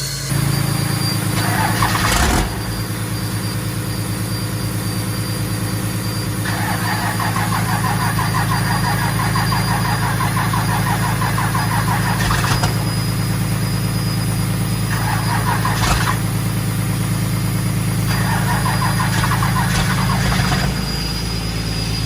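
Truck engine running steadily, with a rough squeal that comes and goes four times, the longest lasting about six seconds in the middle.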